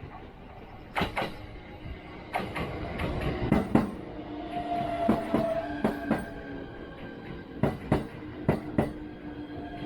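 A train running on rails, with irregular sharp clanks and a steady squealing tone from the wheels that comes in about halfway through.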